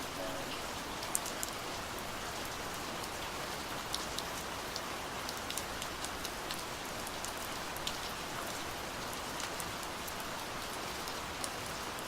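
Steady rain falling: a continuous hiss with scattered sharp ticks of individual drops.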